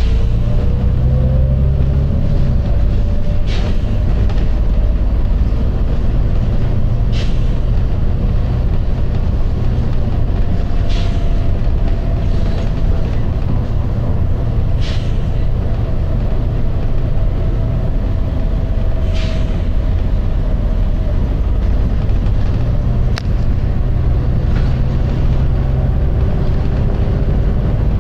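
Volvo B9TL double-decker bus running, a steady low engine and road rumble with a faint whine that slowly rises and falls. Short sharp sounds cut in roughly every four seconds.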